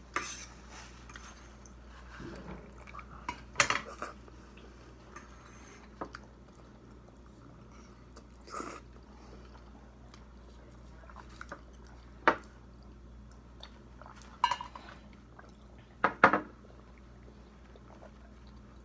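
Cutlery and dishes clinking and knocking every couple of seconds as people eat at a table, over a faint steady low hum.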